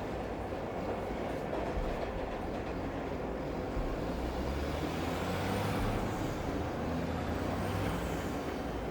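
Steady city ambience hiss with a low vehicle rumble that swells about four seconds in, over which a faint high whine rises and falls.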